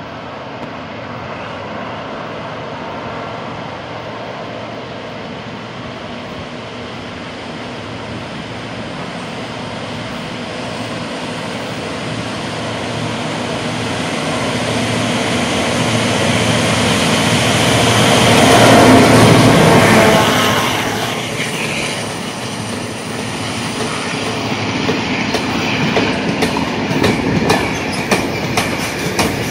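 GM/EMD G26CW-2 diesel-electric locomotive hauling a freight train, drawing closer and growing louder until it passes at its loudest about two-thirds of the way through. Then the freight wagons' wheels clatter over the rail joints in rapid regular clicks.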